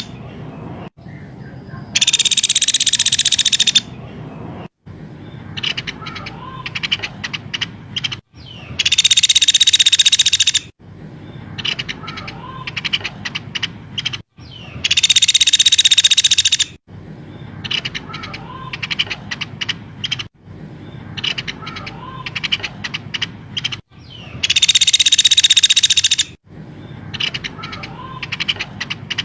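Looped bird-song training recording for a white-rumped shama. Loud buzzy trills about two seconds long come four times, and rapid chattering chirps and clicks fill the gaps between them.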